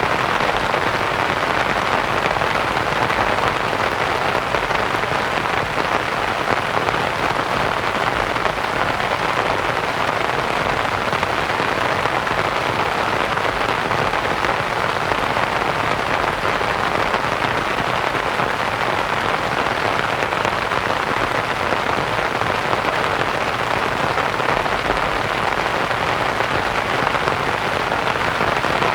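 Steady rain pattering on a canvas tent, blended with soft white noise into an even hiss.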